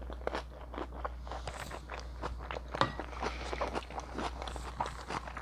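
Close-miked chewing of a soft shrimp spring roll: a quick, uneven run of wet mouth clicks and smacks. A steady low hum sits underneath.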